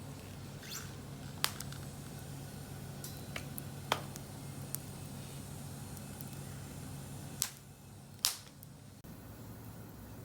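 Wood fire burning in a small fire grill, with a few sharp crackles and pops at irregular intervals over a low steady background.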